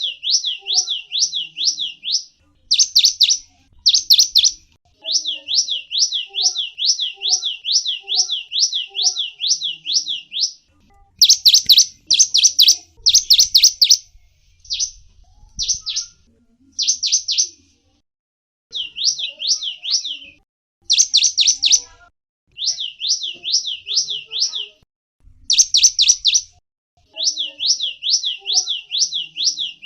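Cinereous tit (gelatik wingko) singing: phrases of rapid, repeated high chirping notes, several a second, each phrase lasting a few seconds with short pauses between.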